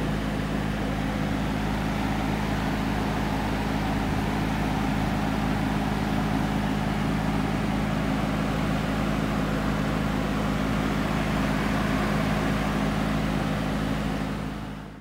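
2017 Acura NSX's 3.5-litre twin-turbo V6 idling at a standstill, a steady low hum that fades out near the end.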